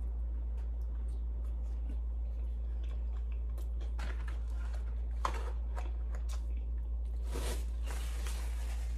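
A person chewing a bite of chicken burger, with faint clicking mouth sounds and a few louder moments about four, five and seven seconds in. A steady low hum lies under it all.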